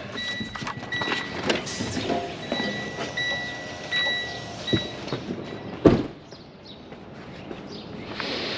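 Clanks and knocks of work at the back of a delivery truck, with a high beep that sounds on and off several times, and one sharp loud bang about six seconds in.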